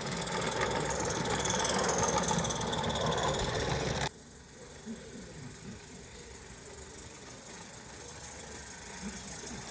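A running locomotive makes a steady rumble with hiss, which cuts off abruptly about four seconds in and leaves quieter background with faint voices.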